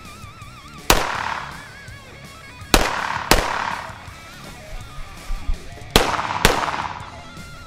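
Five pistol shots, sharp single reports in two pairs and a lone shot, over background music with a wavering melodic line.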